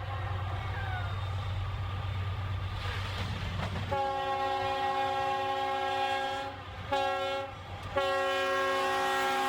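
Canadian National freight locomotive's multi-chime air horn sounding the grade-crossing signal: a long blast, a short blast, then another long blast. A low rumble of the train runs underneath before the horn starts, about four seconds in.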